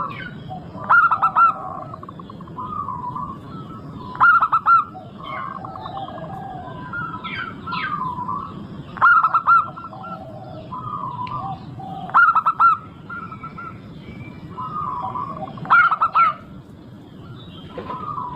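Zebra doves (perkutut) cooing: a loud, quick run of cooing notes every three to four seconds, with softer coos and other birds' chirps between.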